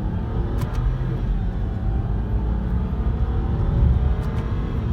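BMW 328i's inline-six engine running while the car drives, over a steady low road rumble, the engine note drifting slightly in pitch. A couple of short clicks, one under a second in and one near the end.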